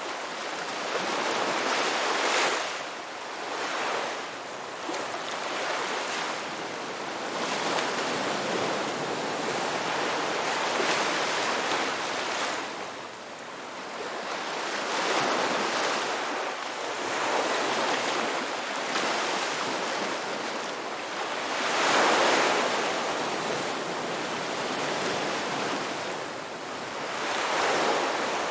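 Ocean waves breaking and washing up the shore in repeated surges every few seconds, the biggest one about two-thirds of the way through.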